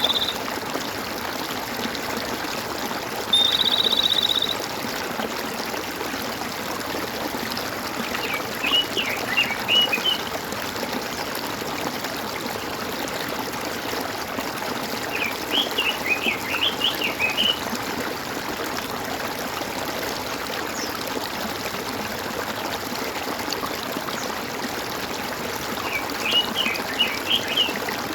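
Gurgling water running steadily, with a songbird singing three short phrases of quick notes, and a short high buzzy trill once at the start and again about four seconds in.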